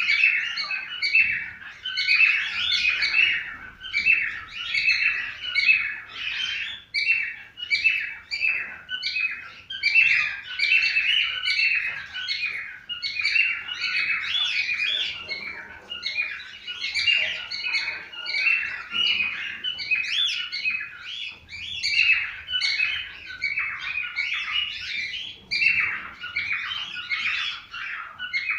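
Several cockatiels chirping and warbling: a dense, unbroken stream of short, overlapping whistled calls.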